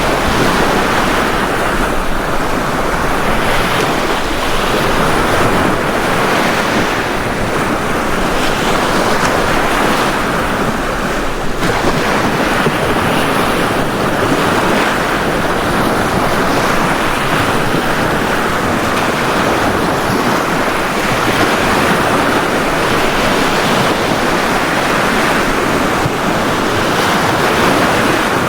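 Sea waves washing steadily onto a beach: continuous surf.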